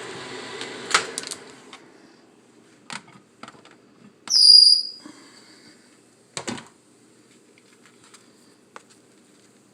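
Microwave oven stopped mid-cook: its running hum ends with a door click in the first second or two, then a few handling clicks, a single high beep about four and a half seconds in, and a knock about six and a half seconds in.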